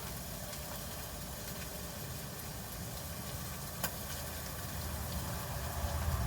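Steady low mechanical hum with a faint hiss, like an idling engine, with a single sharp click about four seconds in.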